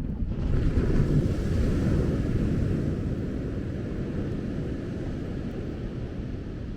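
A wave breaking on the beach and washing up the sand: a rush that swells suddenly, is loudest about a second in, then slowly fades, over a low rumble of wind on the microphone.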